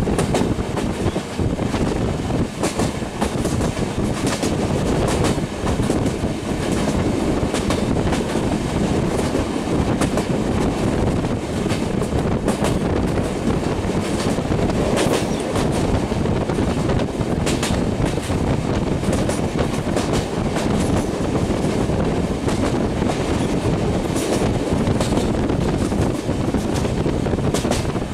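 Train running at speed, heard from on board: a steady rumble and rush of wheels on the rails, broken by frequent clicks and clacks over the rail joints.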